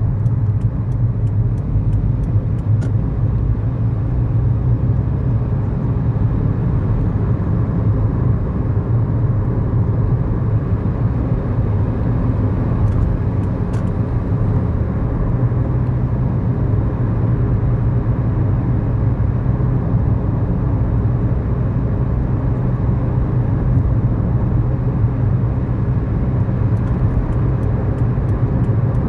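Cabin sound of a 2011 Kia New Morning's 999 cc four-cylinder SOHC engine running steadily while driving, with its low hum and road noise heard from inside the car.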